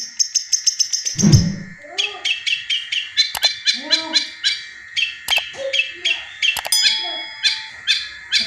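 Long-tailed shrike (cendet) singing a fast chain of sharp, repeated notes that mimic a kingfisher's (tengkek buto) call; the notes run about six or seven a second at first, then come slower and harsher. A steady high ringing tone lies under the song, and there is a loud low thud a little over a second in.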